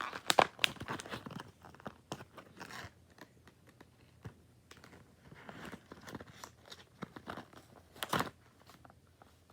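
Plastic and cardboard packaging of a die-cast car being pried at and torn open: irregular crinkling, crunching and sharp snaps, loudest about half a second in and again near the end.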